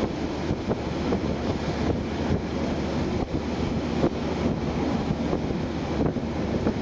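Moving passenger train heard from on board: a steady rumble of the carriage running along the track, with occasional light clicks from the wheels on the rails.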